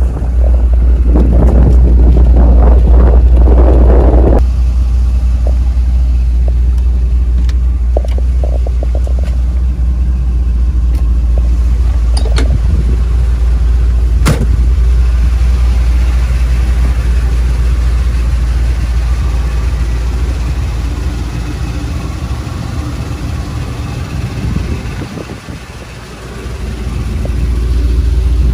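1978 Chevrolet Corvette's 350 small-block V8 running with a steady low rumble. It dips briefly near the end, then rises again.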